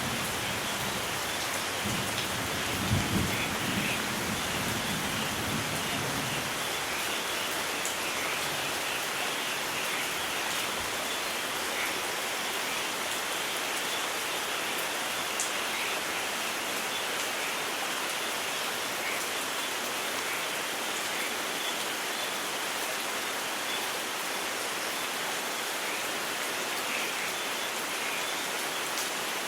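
Steady rain, with a low roll of thunder in the first few seconds that peaks about three seconds in and dies away by about six seconds.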